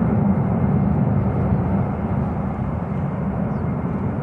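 Steady rumble of a jet airliner's engines as it climbs out after takeoff.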